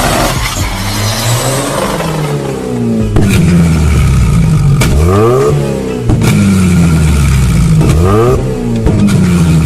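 Turbocharged car engine revved hard about three times: each time the pitch climbs sharply, holds high for a couple of seconds, then drops back. The revving starts after a couple of seconds of rushing noise.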